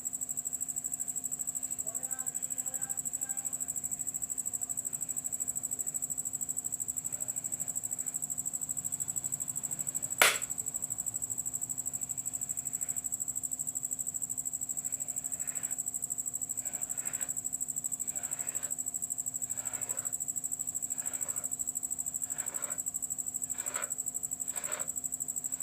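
Knife cutting a thin sheet of rolled paratha dough into strips on a wooden rolling board: soft cutting strokes about once a second through the second half, with one sharp click about ten seconds in. A steady high-pitched whine runs underneath.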